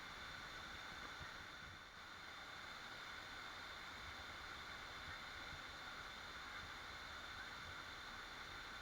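Waterfall: a faint, steady rush of falling water.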